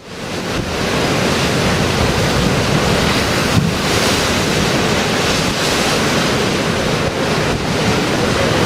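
Storm waves breaking on the shore under high tide, with strong wind buffeting the microphone: a dense, steady rushing noise that fades in over the first second.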